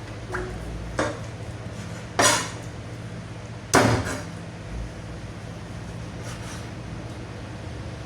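Metal utensils or pans clanking: three sharp knocks, the last the loudest and ringing briefly, over a steady low machine hum.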